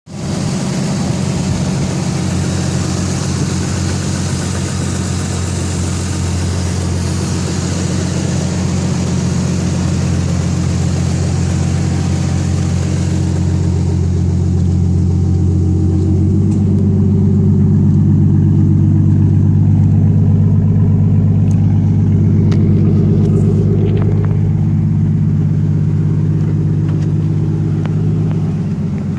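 Toyota 2JZ-GTE turbocharged straight-six engine idling steadily, a low even rumble. A hiss rides over it for roughly the first dozen seconds and then drops away, and the engine note grows a little louder about halfway through.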